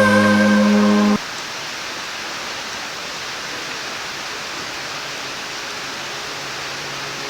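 Background music cuts off about a second in, leaving a steady rushing of water.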